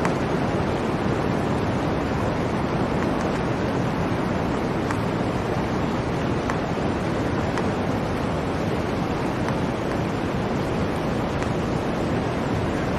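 Blizzard wind: a steady, dense rush with no gusts, with a few faint ticks scattered through it.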